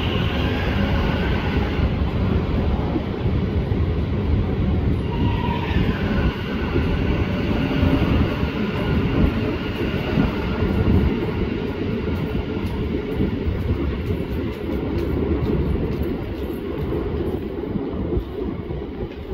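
Electric suburban train pulling out along the platform past the microphone, its wheels and running gear giving a steady rumble. A high whine glides down in pitch a few seconds in, and the sound fades near the end as the last carriage leaves.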